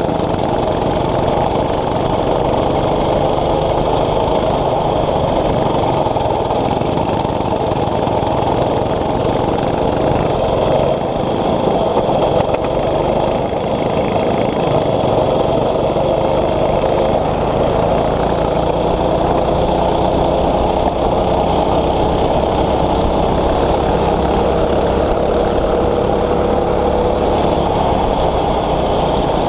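Single-cylinder 6.5 hp four-stroke kart engine running under race load. Its pitch rises and falls as the kart accelerates and slows, with a long rise near the end.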